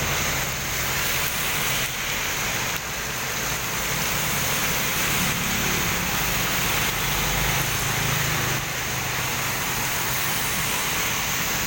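Heavy typhoon rain falling steadily, a dense even hiss of rain on surfaces. A low hum swells and fades in the middle.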